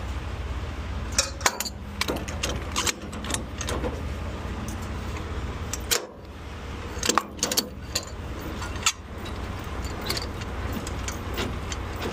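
Irregular metallic clanks, clicks and rattles of a semi-trailer's landing-gear crank being worked to lower the trailer, over a steady low rumble.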